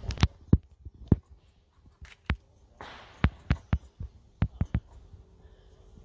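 Firecrackers going off: an irregular string of about a dozen sharp bangs.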